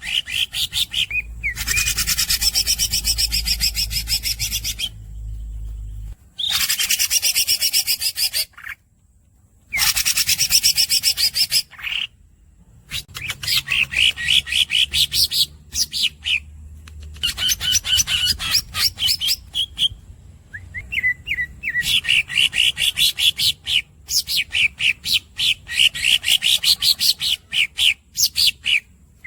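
Green leafbird (cucak ijo) singing long, rapid rolling trills of high repeated chirps, broken by a few abrupt pauses. A low hum runs under the first few seconds.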